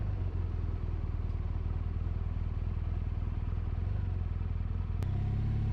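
BMW R1200RT boxer-twin motorcycle engine running steadily. About five seconds in the sound changes abruptly to a smoother, steadier engine note.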